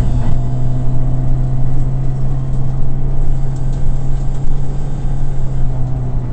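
Subaru rally car's turbocharged flat-four engine heard from inside the cabin, running at a steady, nearly constant pitch, over road and tyre noise.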